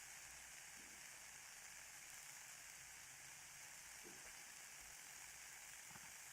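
Ear candles burning: a faint, steady hiss and crackle with a few soft pops.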